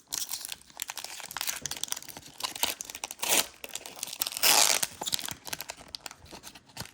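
Foil Pokémon booster pack wrapper crinkling and being torn open, with quick crackling rustles and a louder rip about four and a half seconds in.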